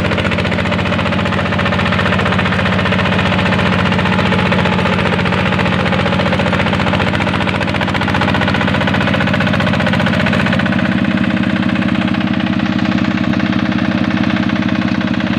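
Hand tractor engine running steadily with a fast, even beat; its tone shifts slightly about ten seconds in.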